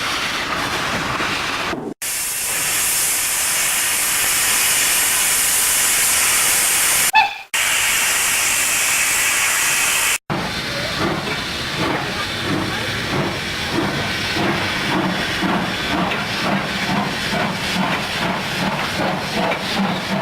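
Steam locomotive sounds in cut-together pieces: loud steam hissing for the first half, then a steady rhythmic beat of about two a second.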